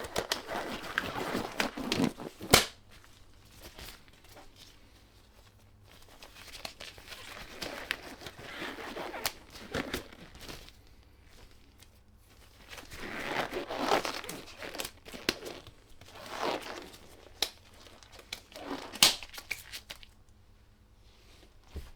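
Disposable gloves being pulled on and handled: bursts of crinkling and rustling, with a few sharp snaps, the loudest about two and a half seconds in.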